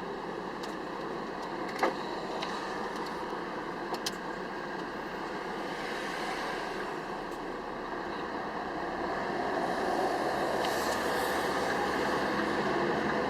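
Scania R500 V8 lorry on the move: steady engine and road noise that grows louder about ten seconds in, with a couple of sharp clicks in the first few seconds.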